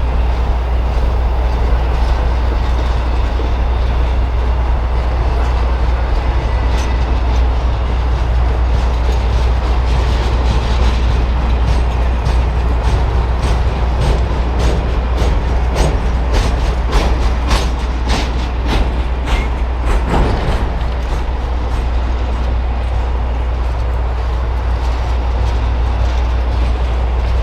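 Norfolk Southern Triple Crown Roadrailer train rolling past with a steady low rumble, its wheels clicking over rail joints in quick runs, thickest about halfway through.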